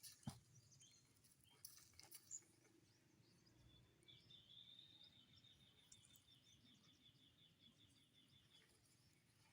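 Near silence: a few faint clicks in the first couple of seconds, then a faint high trill of rapid pulses lasting about five seconds.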